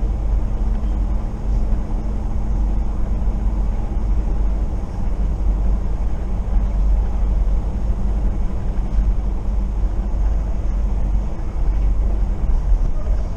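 Passenger train running at speed, heard from inside the carriage: a steady deep rumble of wheels on rail with a low hum over it that fades out about ten seconds in.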